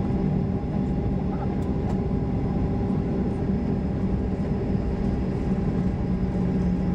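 Boeing 737-800 cabin noise while taxiing after landing: the CFM56 engines idle with a steady rumble and a constant low hum.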